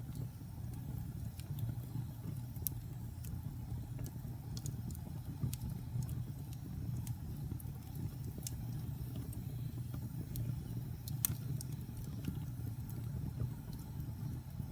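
Wood fire in a fireplace crackling, with scattered sharp pops over a steady low rumble of burning; one louder pop about eleven seconds in.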